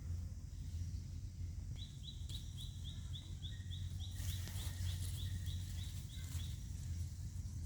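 A bird calling a rapid, even series of short high chirps, about four a second, that starts about two seconds in and stops near the end, over a steady low outdoor rumble.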